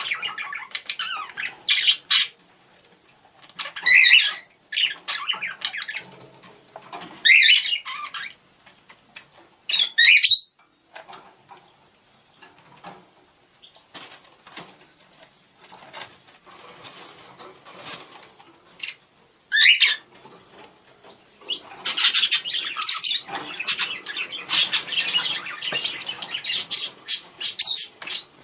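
Budgerigars calling: several loud, sharp squawks a few seconds apart, a stretch of quieter scattered chirps, then dense, continuous chattering in the last several seconds.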